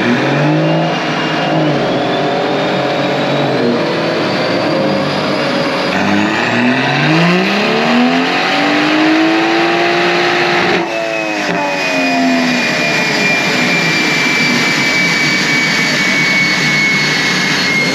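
BMW M140i's turbocharged 3.0-litre straight-six doing a full-throttle pull on a chassis dyno: the revs climb steadily for several seconds, cut off sharply about eleven seconds in and fall away. A high whine then slowly drops in pitch as the drivetrain winds down.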